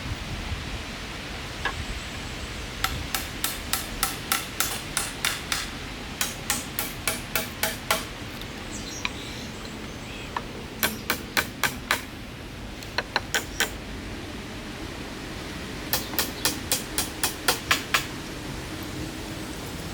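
Hammer blows in quick runs of about three sharp strikes a second, with short pauses between the runs.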